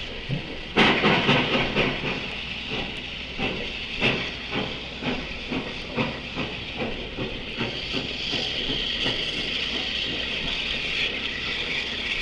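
Steam locomotive working, its exhaust chuffing at about two beats a second over a continuous hiss of steam. The chuffs are loudest about a second in and grow fainter, while the hiss swells near the end.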